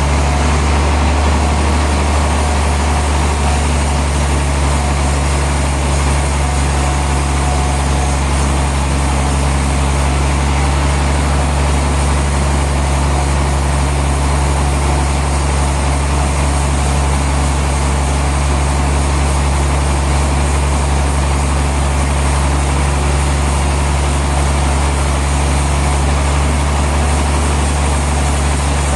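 Sawmill machinery running steadily with a loud, low drone that holds an even pitch and level throughout.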